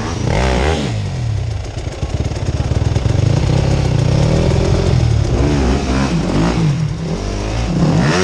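Off-road motorcycle engine revving up and down repeatedly as it is ridden over rough ground, with a low choppy stretch around two seconds in.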